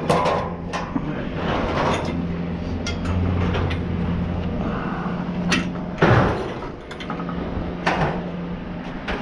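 Scrap metal clanking and banging as pieces of automotive junk are pulled loose and handled, with several sharp knocks, the loudest about six seconds in, over the steady hum of an engine idling.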